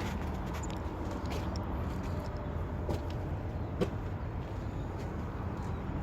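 Steady low background rumble, with one short sharp click a little before the middle.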